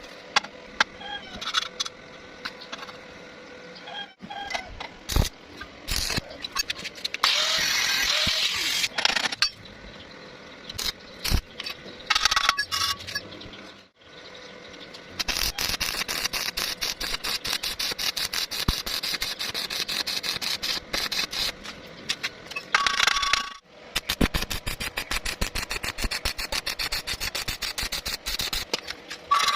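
Electric arc welding on iron pipe and square tube: two long stretches of rapid, irregular crackling, with scattered metal clinks and knocks between them and a short hissing stretch early on.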